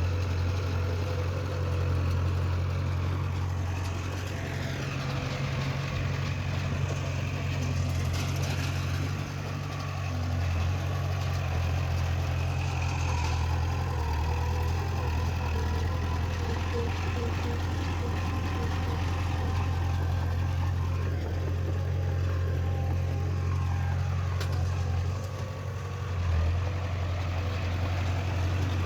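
Diesel engine of heavy earthmoving machinery (bulldozer or dump truck) running steadily with a deep, constant hum and slight changes in pitch.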